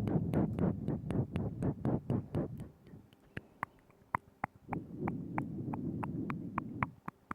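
Close-miked ASMR mouth sounds: a quick run of wet clicks and smacks, about five a second, then slower single clicks, then a low wet rumble with clicks over it.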